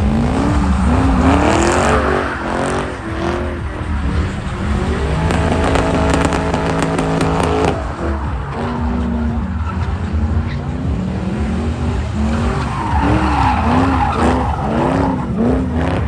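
Car engine revving hard at a burnout, its pitch rising and falling again and again, held at a steady high rev for a few seconds in the middle, with tyres squealing.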